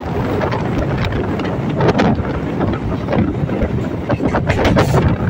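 A MEMU electric train running along the track, heard from an open window or door of the coach: a steady rumble of wheels on rail, wind buffeting the microphone, and sharp wheel clicks over the rails about two seconds in and again in a cluster near the end.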